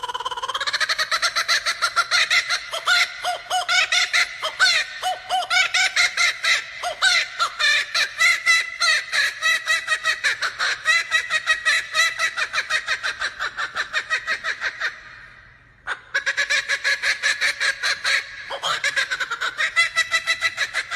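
Male laughing kookaburra giving its laughing call: a long run of loud, rapid repeated notes. It breaks off for about a second roughly three-quarters of the way through, then starts again.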